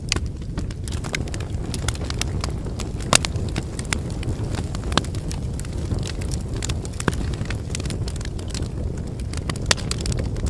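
Wood fire burning with a steady low rumble of flames and irregular crackling and popping of the burning firewood; the sharpest pops come about three seconds in and near the end.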